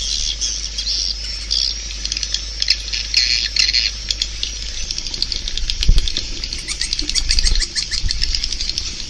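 A flock of edible-nest swiftlets twittering: dense, rapid high chirps and fine clicks, the kind of swiftlet call sound used to draw birds to a swiftlet house. A low thump comes about six seconds in.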